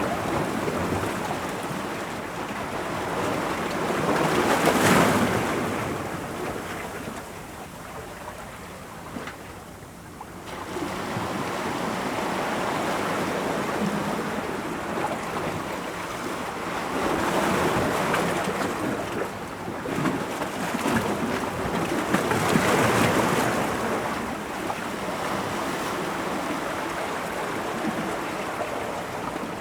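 Ocean waves breaking against rocks: a steady wash of surf that swells into louder crashes, about three times, with a quieter lull between them.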